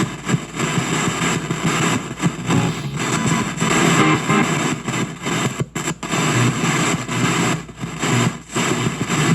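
Spirit box sweeping through radio stations, played through a noise reducer into a shop radio speaker: harsh, distorted static chopped into short fragments, with brief dropouts such as one about halfway through.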